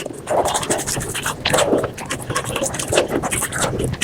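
Close-miked eating sounds sped up about five times: rapid chewing, crunching and mouth smacking of spicy chicken skin and rice, a dense run of quick clicks and wet bites.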